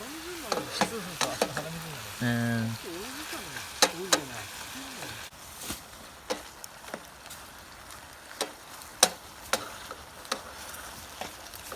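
Food frying and sizzling in a cooking pot, an even hiss broken by sharp clicks and knocks now and then.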